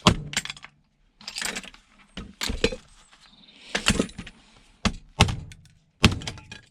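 Small electrical item being taken apart by hand and with tools: about six sharp cracks and knocks of hard plastic and metal parts, with scraping between them.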